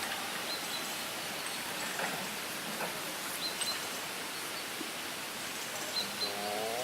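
Steady outdoor background noise, with faint short high chirps now and then. A man's voice starts right at the end.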